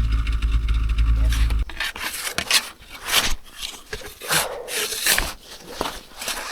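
Snowmobile engine running at a steady low hum, cut off abruptly about a second and a half in. Then comes a run of irregular crunching and scraping in snow as the stuck sled is dug out by hand.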